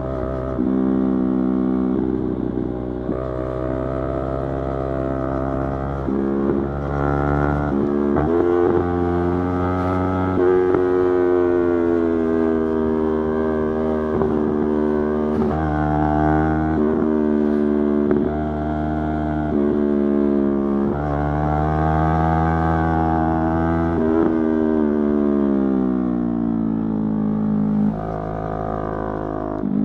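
Yamaha YZF-R3's parallel-twin engine under way, its pitch climbing and dropping repeatedly through gear changes. Near the end the pitch falls steadily as the bike slows.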